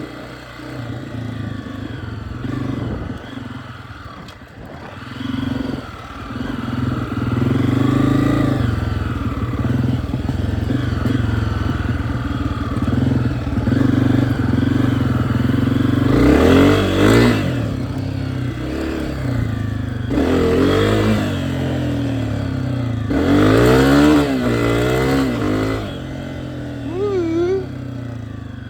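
Dirt bike engine running while being ridden, revving up and down several times, with the sharpest rises and falls in the second half.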